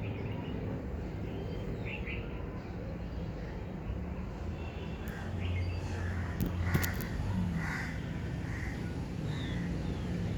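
Birds calling over a steady low background rumble, with a run of four or five short calls and a few sharp clicks in the second half.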